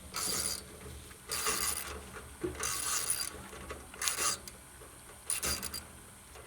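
Hand socket-wrench ratchet clicking in short runs, about five strokes a little over a second apart, as it is worked back and forth on a bolt holding the generator's fuel tank.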